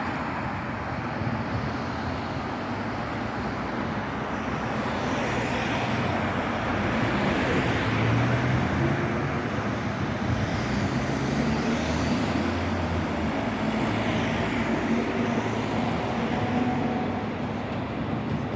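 City street traffic noise: a steady rumble of passing road vehicles with engine hum, growing a little louder in the middle.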